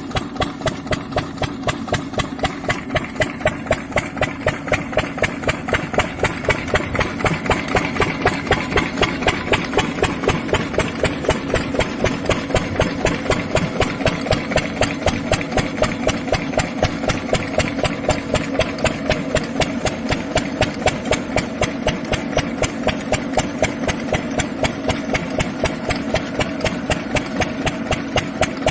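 Diesel engine running steadily at low speed with an even, regular beat, driving a surface water pump.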